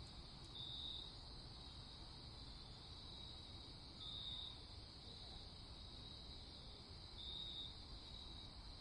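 Crickets trilling faintly and steadily in a night chorus, with a louder chirp standing out about every three seconds, over a low faint background hum.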